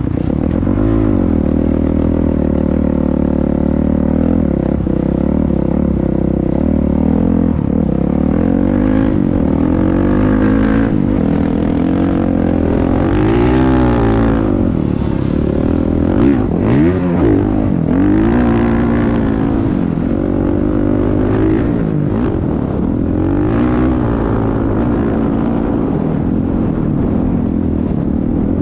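Motocross dirt bike engines revving, pitch rising and falling again and again over a steady low drone.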